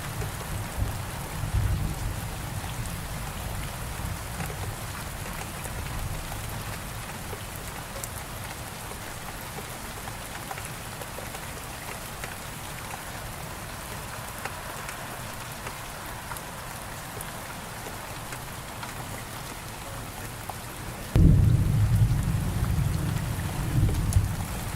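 Steady rain with a low rumble of thunder in the first few seconds. Near the end a sudden, loud clap of thunder breaks in and rumbles on.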